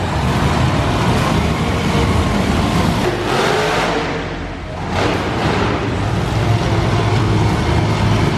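Monster truck engines revving loudly, dipping about halfway through and then rising again.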